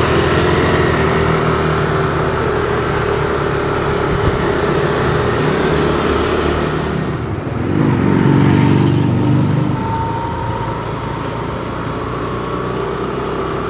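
Car engine and road noise heard from inside a moving car, with a steady hum, swelling louder for a couple of seconds about eight seconds in.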